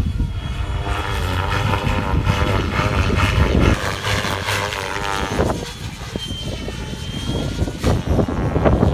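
Electric Gaui X7 RC helicopter with a three-blade main rotor in flight, its rotor and motor whine rising and falling in pitch as it manoeuvres, with a low wind rumble on the microphone.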